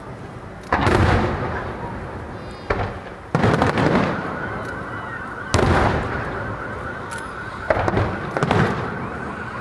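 Aerial fireworks shells bursting overhead: five loud booms one to two seconds apart, plus a smaller pop, each followed by a long fading rumble.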